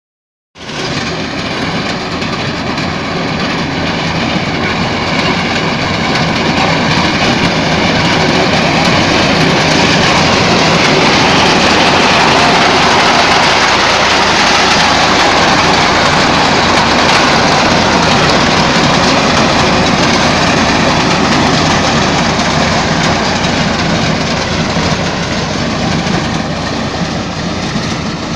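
Tractor engine running steadily while driving a tractor-mounted reaper, a loud continuous mechanical din that swells a little in the middle.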